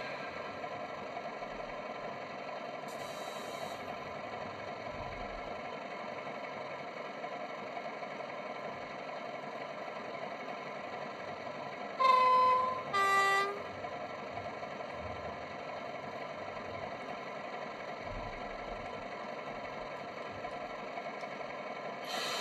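Sound decoder of an Accurascale Class 31 model locomotive playing its diesel engine idling through the model's small speaker, with a short hiss about three seconds in. About twelve seconds in the two-tone horn sounds, a higher note then a lower one.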